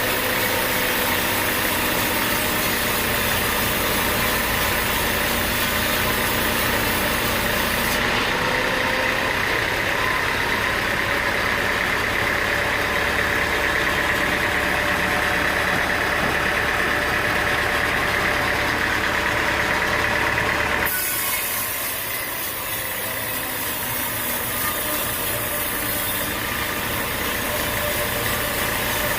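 Engine-driven machinery running steadily. The sound changes abruptly about eight seconds in, and again about twenty-one seconds in, where it drops slightly.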